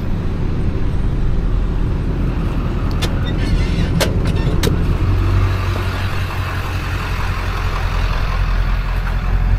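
A vehicle engine running steadily with a low hum, with a few sharp clicks or knocks around three to five seconds in.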